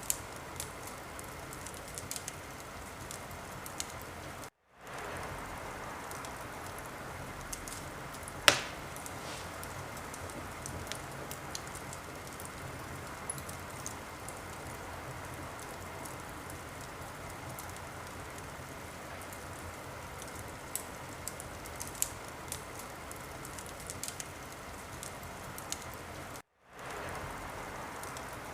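Wood fire burning in a fireplace: a steady hiss with frequent small crackles and one loud pop about eight and a half seconds in. The sound cuts out completely for a moment twice.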